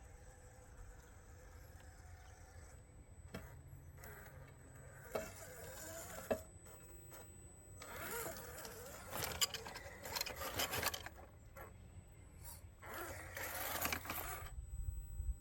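Intermittent scraping and crunching in uneven bursts, with a couple of sharp clicks before them.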